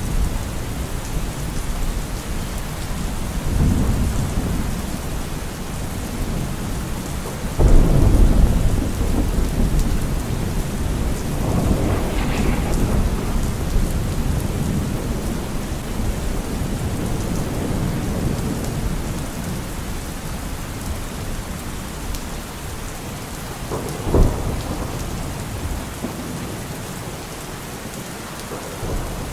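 Steady rain with rolling thunder: low rumbles come and go, a loud clap of thunder about a quarter of the way in rumbles on for a couple of seconds, and a shorter, sharper crack comes near the end.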